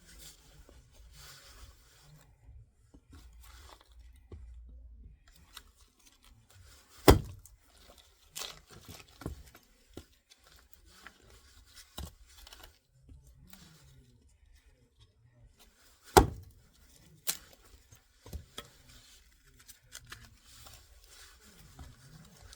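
Hatchet splitting oak firewood into thin kindling: scattered sharp chopping strikes, the two loudest about seven and sixteen seconds in, with softer knocks and wood cracking and tearing apart between them.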